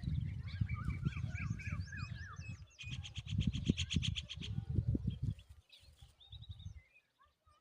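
Birds chirping in short repeated notes, with a fast, even trill about three seconds in, over an uneven low rumble that is the loudest sound and drops away near the end.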